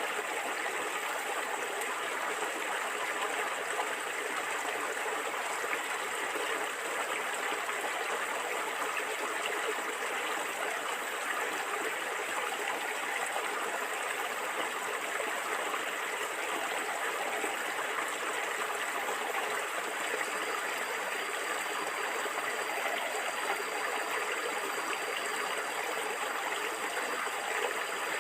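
Stream water flowing and gurgling, a steady even rush.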